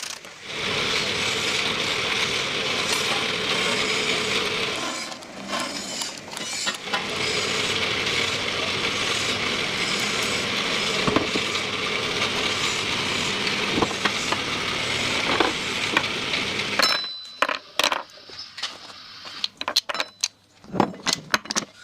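Factory machinery running with a steady, dense mechanical noise. About three-quarters of the way through it stops, and a series of separate sharp clicks and knocks follows.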